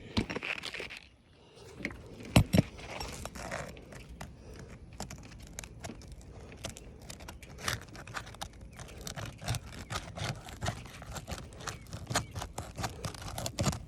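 Asphalt roofing shingles being pried loose by hand: a steady run of irregular scrapes, clicks and taps, with a louder pair of knocks about two and a half seconds in.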